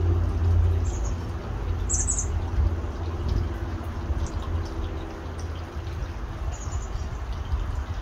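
Three short, high bird chirps: one about a second in, a louder one a second later, and one near the end. They sound over the steady splash of a tiered garden fountain's water falling from its spouts and a low rumble.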